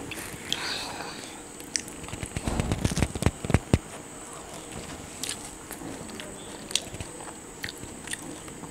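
Close-miked chewing of homemade pizza: crust crunching and sharp mouth clicks, heaviest and loudest from about two and a half to four seconds in.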